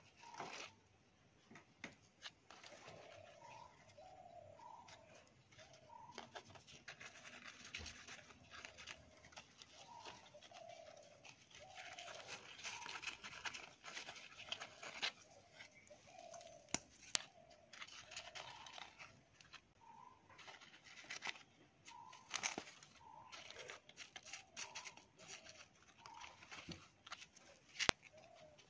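A bird calling in short, low phrases repeated again and again, over faint rustling and a few sharp clicks from hands pressing potting soil and handling leaves in a plastic pot.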